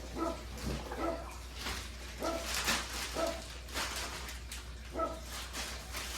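A dog whining in short, high yelps, five or so times over a few seconds, mixed with brief noisy rustles.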